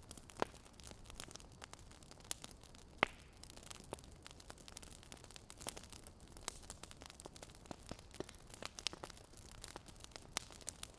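Wood fire crackling: irregular sharp pops and snaps over a low steady hiss, with the strongest pops about half a second and three seconds in.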